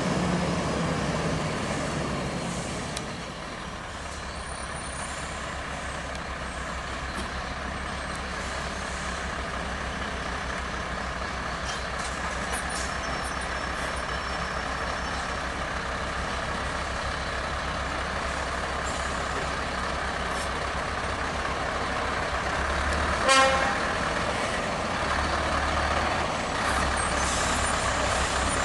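Heavy truck engine running steadily at low speed as the truck creeps past. A short horn toot comes about 23 seconds in.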